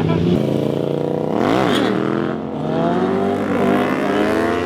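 Car engine revving sharply once, about a second and a half in, then accelerating with its pitch climbing steadily.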